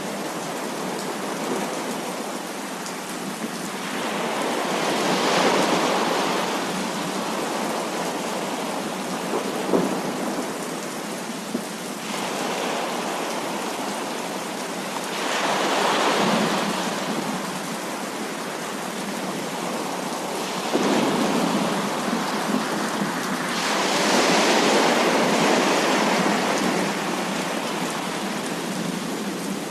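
Heavy rain falling steadily, with thunder rolling in three long swells about ten seconds apart.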